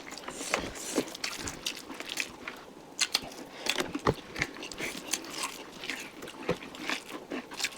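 Close-up eating sounds of chicken curry being chewed: irregular wet smacks and clicks of the mouth, a few a second.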